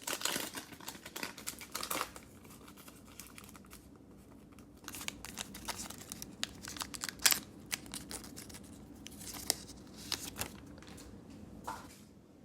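Cellophane wrapper of a basketball trading-card cello pack crinkling and tearing as it is opened, in several spells of sharp crackling with one louder snap about halfway through.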